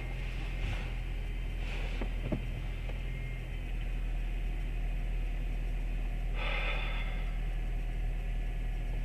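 Car engine idling, a steady low hum, with a brief noise about six and a half seconds in.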